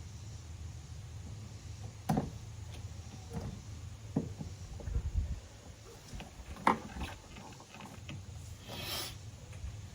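Scattered knocks and clunks of hand tools and parts being handled while the front of a truck engine is taken apart, with a short rush of noise near the end.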